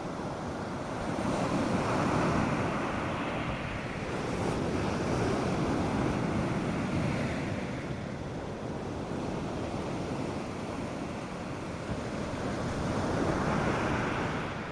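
North Sea surf: waves breaking and washing up a sandy beach in slow swells, louder about two seconds in, again for several seconds from around four seconds, and once more near the end, with a light wind.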